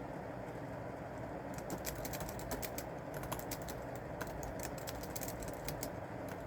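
Typing on a keyboard: a quick, irregular run of key clicks starts about a second and a half in and stops shortly before the end, over a steady low background rumble.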